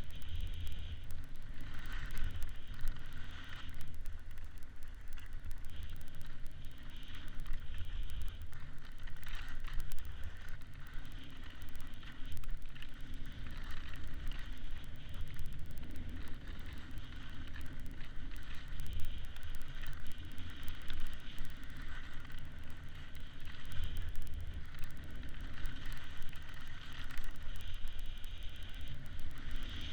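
Wind buffeting the microphone: a constantly fluctuating low rumble, with a steady hiss over it.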